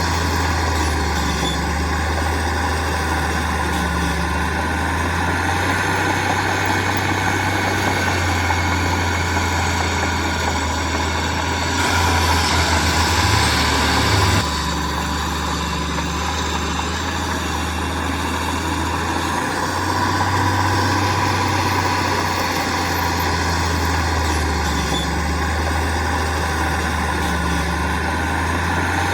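Heavy diesel construction machinery running steadily with a low engine drone. About twelve seconds in, a louder hiss joins it for roughly two and a half seconds.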